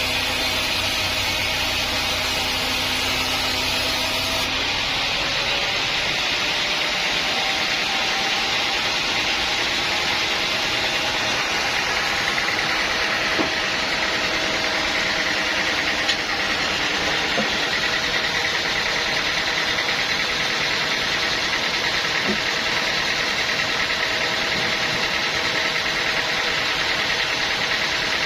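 Sawmill machinery running: a steady engine-like drone with a strong hiss. A low hum drops away about four seconds in.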